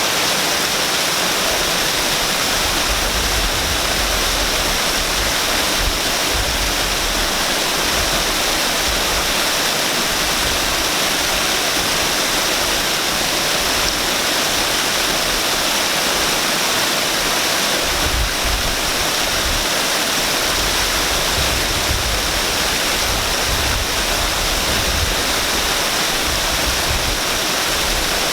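Waterfall pouring steadily, an even rush of falling water with low rumbling that comes and goes.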